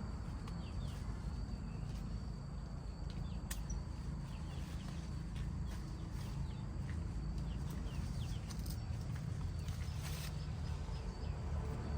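Outdoor rural ambience: a steady low rumble, with many short high chirps and a faint steady high tone over it, and an occasional click.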